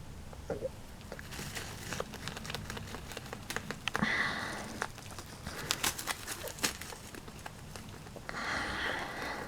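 A pet rabbit rustling and shifting things on its mat: light crinkling and scattered small clicks, with two longer rustles about four seconds in and near the end.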